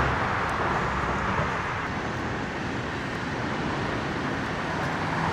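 Steady road traffic noise: the hiss of tyres from passing vehicles, easing slightly midway.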